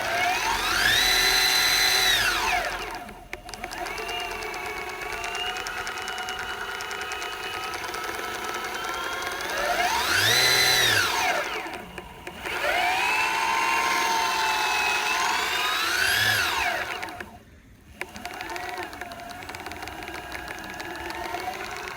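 Boosted Board v1 Dual+ electric skateboard's motors whining, rising in pitch as the board speeds up and falling as it slows, three times, over a steady running noise with a fine rapid clicking from one wheel.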